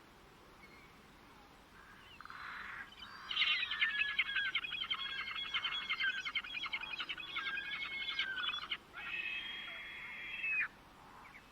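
A songbird singing a long, rapid, chattering song from about two seconds in, followed by a shorter phrase of high, held notes that cuts off suddenly near the end.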